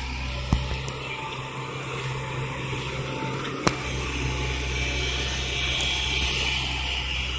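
Construction machinery running steadily, a low hum under an even hiss. Two sharp clicks sound, about half a second in and again just past the middle.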